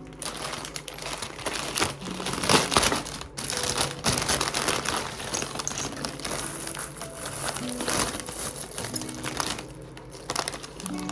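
Continuous crinkling and rustling, as of material being handled and crumpled, loudest a couple of seconds in, over soft background music.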